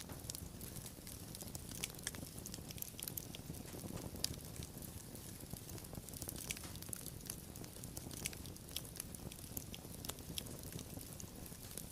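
Wood fire crackling: a steady low rumble of burning with many sharp pops and snaps scattered throughout, one louder pop about four seconds in.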